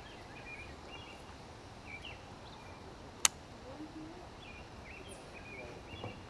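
Birds chirping in short, scattered calls over a faint outdoor background, with one sharp click a little past the middle.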